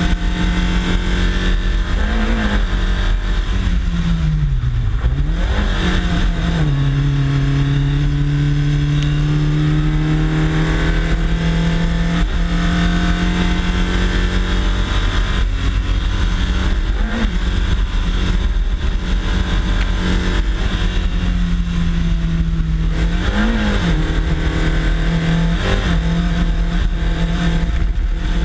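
Race car engine running hard under load up a hill climb, its pitch mostly held steady. Its pitch dips and recovers about five seconds in, then settles lower shortly after, like an upshift, and it rises briefly twice. Heavy low rumble of wind and road noise on the bumper-mounted camera runs underneath.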